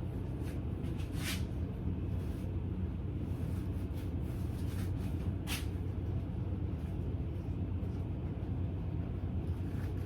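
A steady low hum, with a few short hissing or rustling sounds, one about a second in and another about five and a half seconds in.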